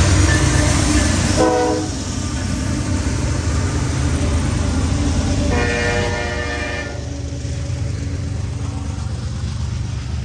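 Diesel locomotives of a freight train rumbling past close by, then the steady rolling of covered hopper cars on the rails. The train's horn sounds briefly about a second and a half in, and again for just over a second around six seconds in.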